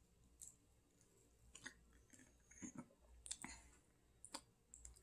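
Faint chewing with short, scattered mouth clicks and smacks, a person eating a breaded vegan chicken patty.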